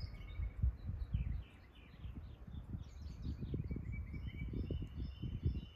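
Several birds chirping and singing, in short, high calls, over an uneven low rumble.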